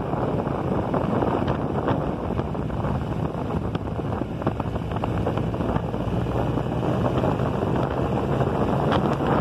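Motorcycle under way at a steady pace: the engine runs beneath heavy wind rushing over the mounted phone's microphone.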